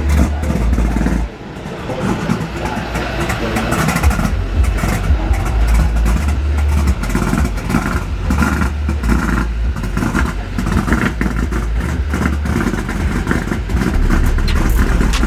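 Motor vehicle noise with a heavy low rumble, dipping briefly about a second in and then building back up.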